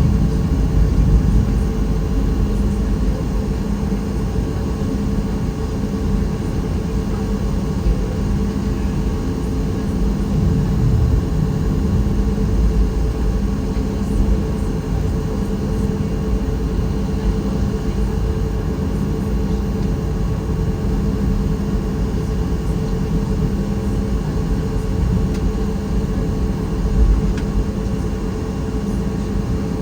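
Cabin noise inside a Boeing 737 MAX 8: a steady, dense low rumble with a constant hum from its CFM LEAP-1B engines.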